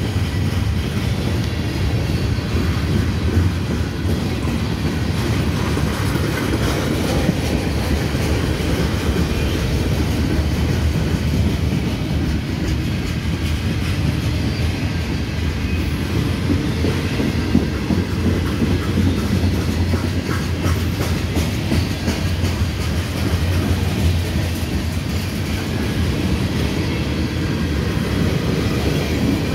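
Freight cars of a slow-moving train rolling past: a steady rumble of steel wheels on the rails, with clicks from the wheels scattered through it.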